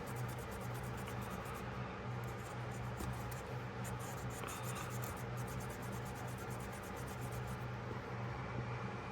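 Quick, regular scrubbing strokes on a pocketknife being cleaned. The strokes ease off for a couple of seconds past the middle, then pick up again.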